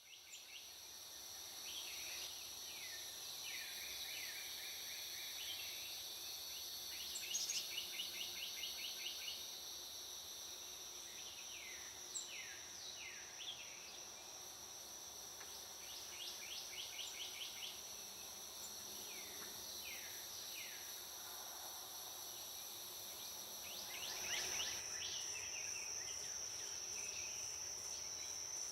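Steady high-pitched insect drone, with bird calls over it: repeated short notes sliding downward and a few quick chattering runs.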